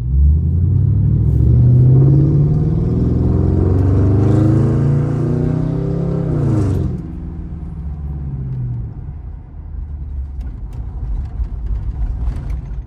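Mercury Grand Marquis's V8 through a loud exhaust, heard from inside the cabin, pulling under acceleration with its pitch rising steadily for about seven seconds. It then drops away suddenly to a lower, quieter rumble as the car cruises on.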